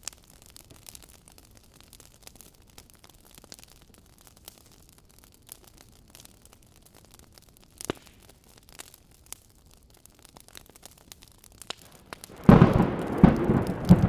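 A wood fire crackles faintly with scattered pops. About twelve seconds in, a loud clap of thunder breaks in and rumbles on.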